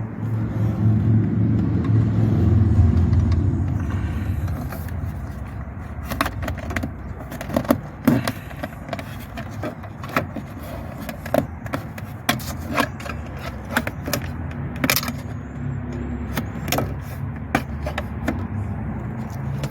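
Bent coat-hanger wire being worked behind an instrument cluster, scraping and clicking against the dashboard plastics in many short irregular knocks. A steady low hum is loudest in the first few seconds.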